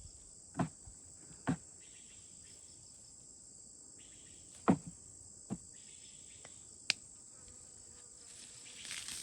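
Steady high-pitched chorus of crickets or other insects, with five sharp knocks spaced irregularly through it, the loudest about halfway.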